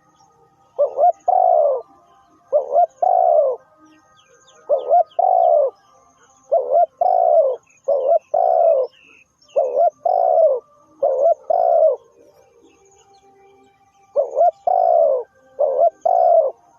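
Spotted dove calling: a low cooing phrase of two or three arching coos, repeated over and over about every one to two seconds, with one longer pause near the end. Faint chirps of small birds can be heard in the background.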